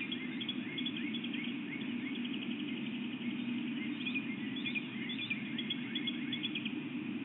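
Small birds singing before dawn: many high chirps and quick trills, some short falling notes, over a steady low hum.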